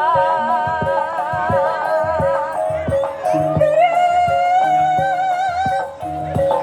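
Banyumas ebeg accompaniment music: a singer's wavering vocal line with vibrato over sustained tuned-percussion tones and drum strokes.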